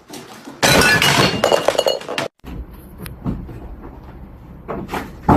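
Glassy clinking and clattering, loudest for about a second and a half near the start and stopping abruptly, followed by a few separate knocks.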